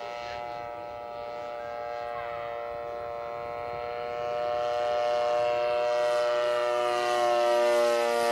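Radio-controlled model airplane's engine running steadily in flight, a steady buzzing note that grows louder about halfway through as the model comes closer.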